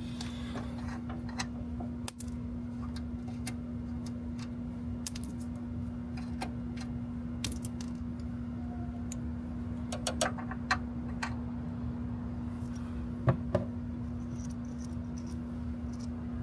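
Small metal hand tools clicking and clinking at irregular moments while bolt threads are chased, over a steady hum.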